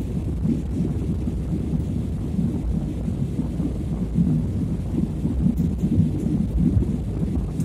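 Low, steady rumble of an airliner's engines and airflow heard from inside the cabin, with a constant fluttering roar.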